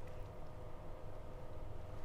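Steady low background hum with a faint steady tone running through it.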